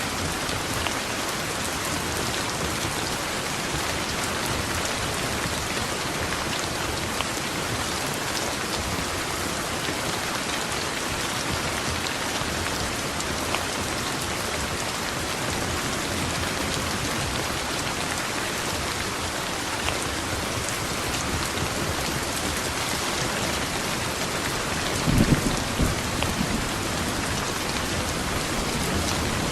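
Steady rain pouring down in an even hiss, with a short low rumble of thunder near the end.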